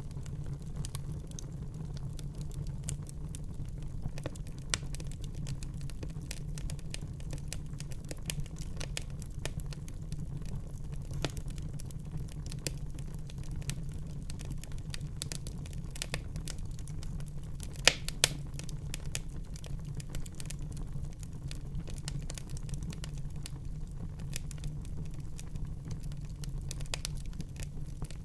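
Wood fire crackling in a fireplace: a steady low rumble of the flames with frequent small snaps, and two sharper pops close together about two-thirds of the way through.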